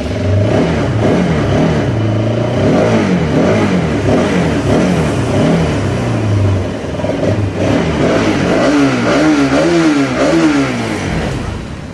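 Bajaj Pulsar RS200's single-cylinder engine being revved with the throttle blipped over and over, its pitch rising and falling repeatedly, to let its exhaust note be heard.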